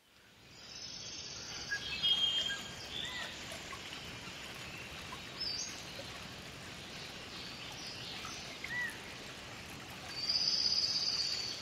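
Bird calls over a steady rushing background: short chirps scattered throughout, with a louder trilling song about two seconds in and again near the end.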